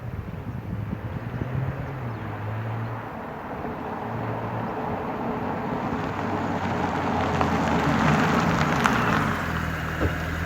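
A 2017 Audi S5's V6 engine running, heard from outside the car: a low, steady engine note, with a rush of noise that swells slowly, peaks near the end and then eases.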